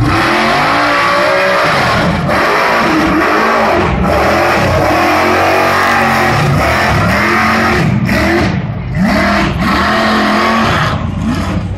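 Loud truck engine revving hard, its pitch climbing and falling back over and over.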